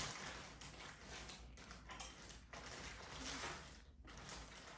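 A sheet of origami paper rustling and being creased as it is folded, with soft scraping and crinkling.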